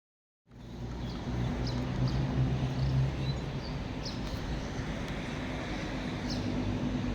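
Distant thunder rumbling low and deep, swelling about a second or two in and then easing into a steady low rumble, with a few faint high chirps over it. The sound starts abruptly about half a second in.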